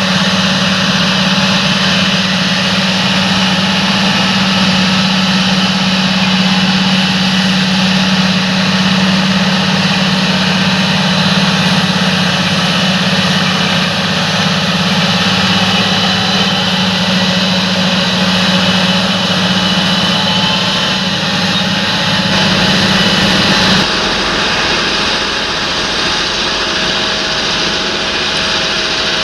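Large John Deere tractor running steadily at work in the field, with a strong low engine hum. About 24 seconds in the sound changes abruptly, the low hum dropping away and leaving a lighter, steady machine sound.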